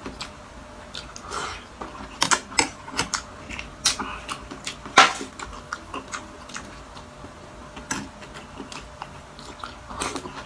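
Close-miked chewing and crunching of crisp food, in irregular crunches with the loudest about halfway through.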